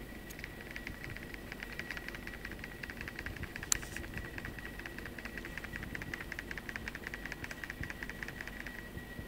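Nokia N85 slider phone rattling in its slide mechanism: a rapid run of small clicks, about ten a second, with one sharper click about four seconds in. The looseness is a sign of poor build quality in the slider. A faint steady high whine lies underneath.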